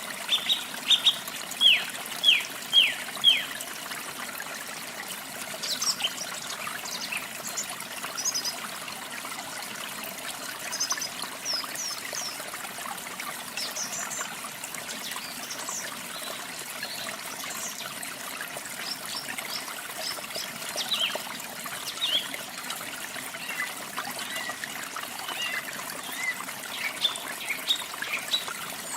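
Running water with a steady rush, and birds singing over it: a quick series of loud, downward-slurred notes in the first few seconds, then scattered high chirps from several birds.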